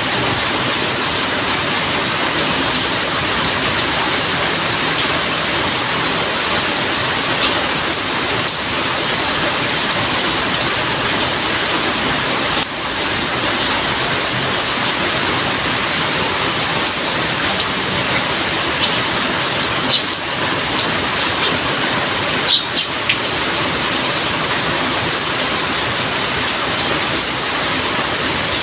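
Heavy rain falling steadily, a dense even hiss, with a few sharper drop ticks now and then.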